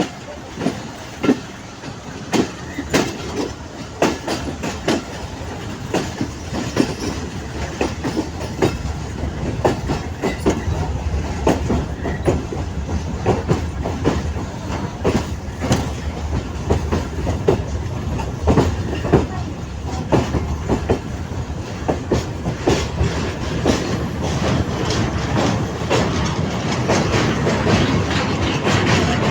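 Intercity Madhumati Express passenger train running on the rails: a steady low rumble with wheels clacking irregularly over rail joints, growing louder near the end.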